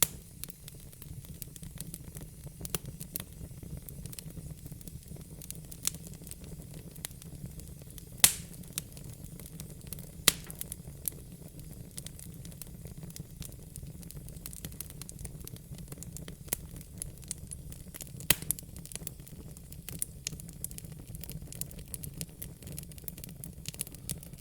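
Fire crackling: irregular sharp snaps and pops, several a second, over a steady low rumble, with a few louder pops about 8, 10 and 18 seconds in.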